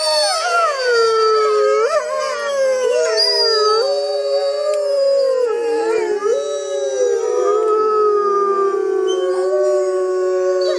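A pack of wolves howling together: several long, overlapping howls at different pitches, gliding up and down and sliding into one another.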